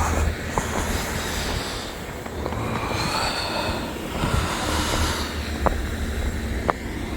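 Steady rumble of road traffic, with a few sharp clicks.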